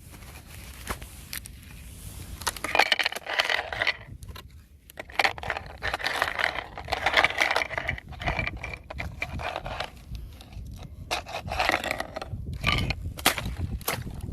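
Fresh ice being scraped and crunched in several rough bouts, with sharp clicks and cracks in between.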